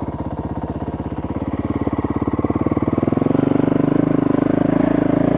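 Dirt bike engine running under way with an even, rapid firing pulse. About three seconds in it grows louder and its note shifts as the throttle is opened.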